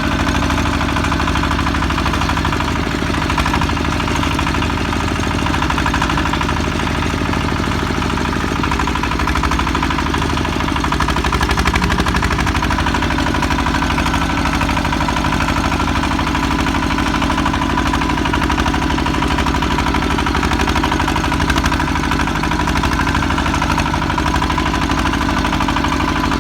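Single-cylinder diesel engine of a công nông farm truck running steadily.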